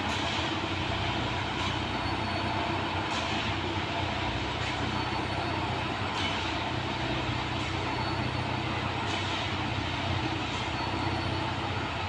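Plasser & Theurer railway track-maintenance machine running steadily with an engine hum and a faint repeating sound about every second and a half.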